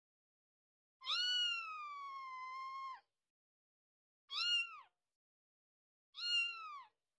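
Kitten meowing in high, thin calls: one long drawn-out meow, then two short ones.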